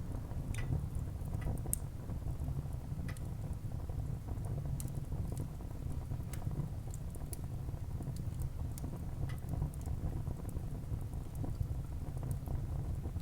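Wood fire burning in a fireplace: a steady low rumble of flame under scattered sharp crackles and pops from the burning wood.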